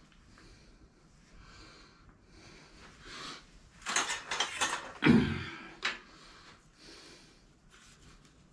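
A cluster of metal clicks and clatter, with a dull thump about five seconds in, as a small Briggs & Stratton mower engine's casing is worked apart by hand. Soft, regular breathing can be heard in the quieter stretches.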